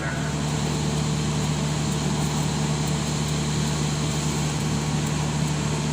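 Steady running noise inside a passenger train carriage: a constant low hum with an even rushing noise over it.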